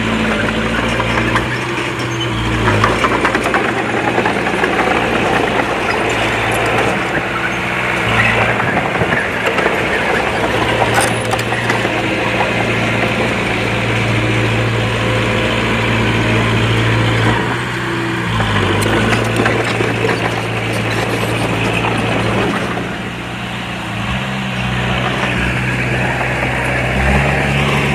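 Komatsu D20P bulldozer's diesel engine running under changing load, its pitch shifting several times, over a continuous mechanical rattle.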